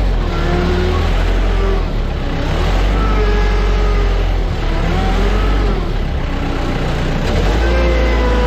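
Engines of airport ground-handling vehicles running and changing speed during aircraft unloading, over a heavy steady rumble, with tones that slowly rise and fall.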